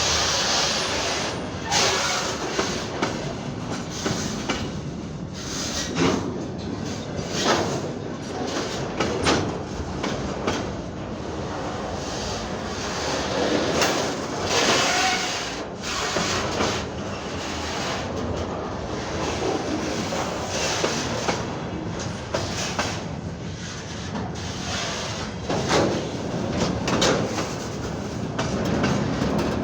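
Freight train rolling past, its wheels clacking over rail joints with a steady rumble and many irregular metallic clanks.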